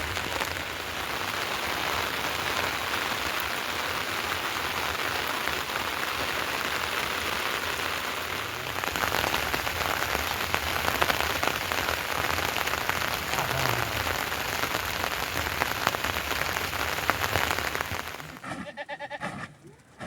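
Heavy rain falling steadily, a dense even hiss that grows a little louder about halfway through. It cuts off abruptly near the end, leaving a much quieter background with a brief pitched sound.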